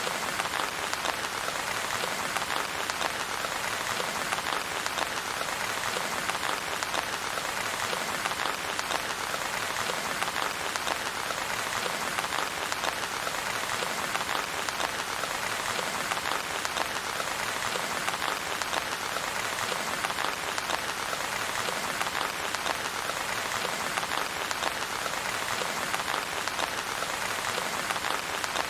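Steady, heavy rain falling, a dense even patter of drops on a surface, with no thunder.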